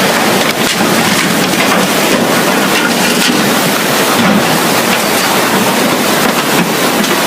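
Swollen river in flood: fast, powerful current rushing in a steady, loud wash of water noise.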